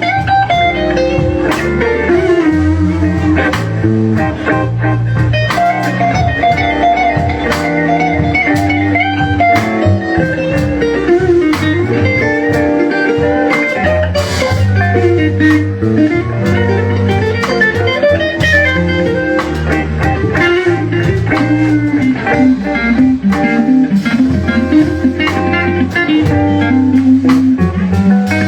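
Live blues band playing a slow blues without vocals: an electric guitar plays lead lines full of bent and wavering notes over bass and drums.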